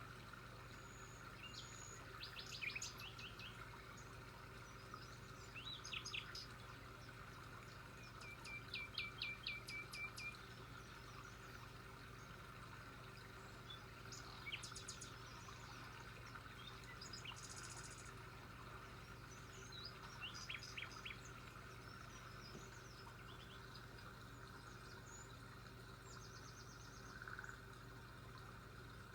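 Birds chirping in short, scattered runs of rapid repeated notes, the longest run about eight to ten seconds in, over a faint steady background hum.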